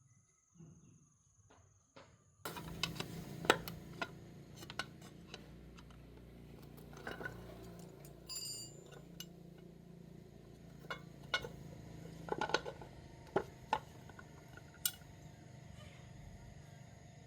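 Small metal parts and tools clinking and tapping: scattered sharp clicks over a steady low hum, starting about two and a half seconds in after near quiet.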